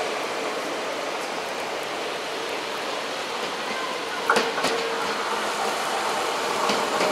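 NS double-deck electric train approaching along the platform track in the rain, a steady rushing noise with a few sharp clicks from the wheels on the rails, the loudest about four seconds in.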